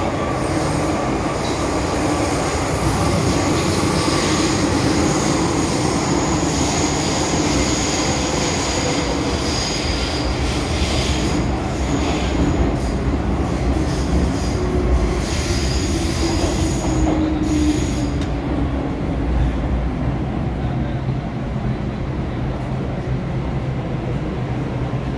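MTR M-Train electric multiple unit running on the rails: a steady rumble of wheels and running gear, with a thin high wheel squeal that dies away about two-thirds of the way through.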